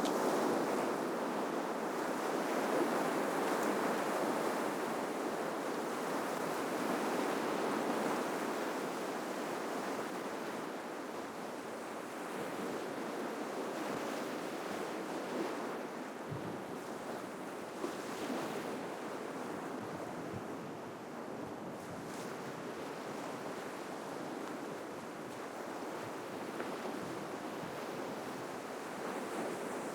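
Ocean surf breaking and washing on the shore as a steady, continuous rush. It is a little louder in the first few seconds and then eases slightly, with a couple of faint clicks around the middle.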